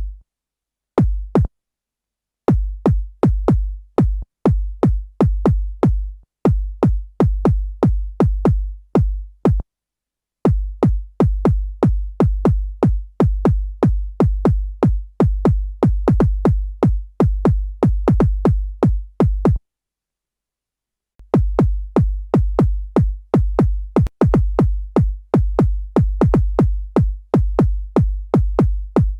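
A synthesized electronic kick drum from Ableton Live's Operator synth, played over and over several times a second. Each hit is a fast downward pitch sweep into a low thump. Playback stops briefly a few times, longest for about a second and a half near two-thirds of the way through.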